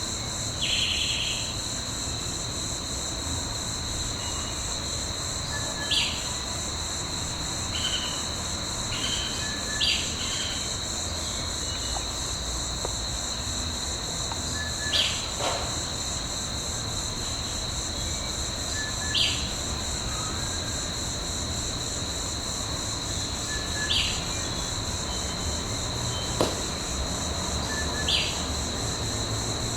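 Steady high-pitched insect drone, like crickets or cicadas, with a bird giving short calls that drop in pitch, repeated about every four to five seconds.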